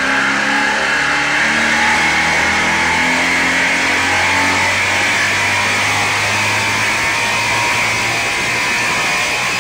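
Guitar music over a Steyr-Puch 650TR's supercharged 760 cc two-cylinder engine running on a chassis dynamometer. The engine carries a high whine that climbs slowly in pitch.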